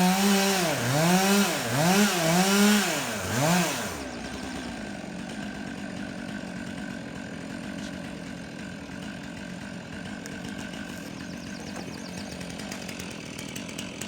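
Two-stroke chainsaw revving high and dropping back several times in quick throttle blips. About four seconds in it settles to a quieter, steady idle.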